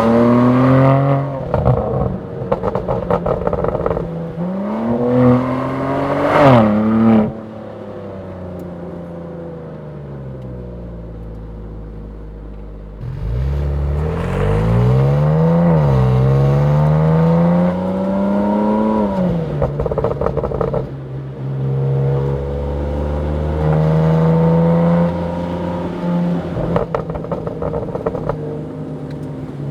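BMW M3 Touring's S58 twin-turbo straight-six pulling hard through the gears, the revs climbing and then dropping sharply at each upshift. About seven seconds in it falls back to a quieter steady run, then picks up again about thirteen seconds in with more rising pulls and shifts.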